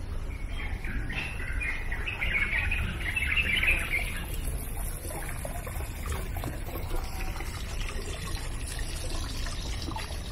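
Birds chirping, a busy run of calls in the first few seconds that thins out afterwards, over a steady low rumble.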